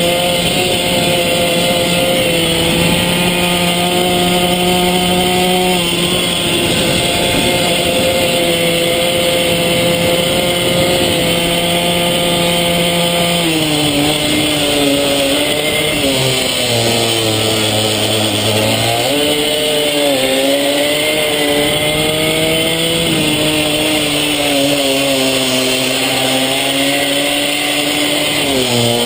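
Small mini-bike engine running hard at high revs, then dropping and picking up again a couple of times midway as the throttle is closed and reopened for corners.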